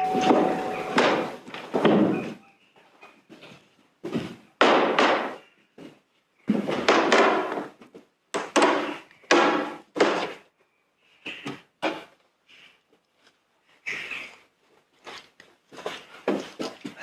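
An irregular series of heavy knocks or thuds, each ringing on briefly before dying away, some coming in quick pairs, with short silences between.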